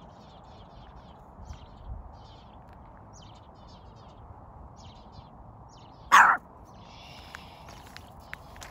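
Small birds chirping in short, faint bursts over a steady low background hiss, with one loud, short sound about six seconds in.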